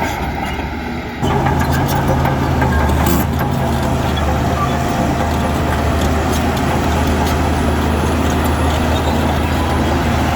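Heavy diesel engine of earthmoving machinery running steadily under load, jumping suddenly louder about a second in.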